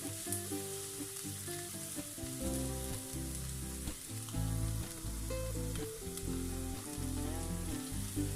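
Chopped onion sizzling steadily as it fries in hot cooking oil in a pan, over background music with a moving bass line.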